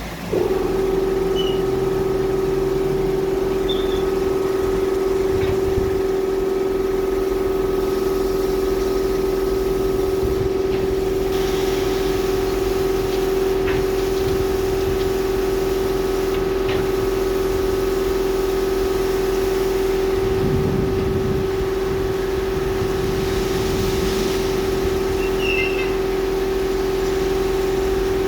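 WashTec SoftCare Pro rollover car wash machine: a motor switches on just after the start and runs with a loud, steady hum, with some low rumbling partway through.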